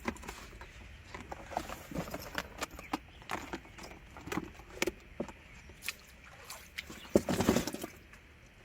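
An angler's footsteps and handling noises as he goes to check his stored catch: irregular crunches and knocks, with a louder rustling burst about seven seconds in.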